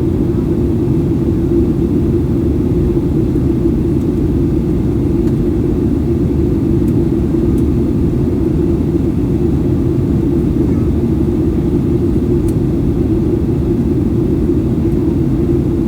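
Steady cabin noise inside a Boeing 737-800 airliner in flight: the drone of its CFM56 jet engines and the rush of air past the fuselage, heavy in the low range and unchanging throughout.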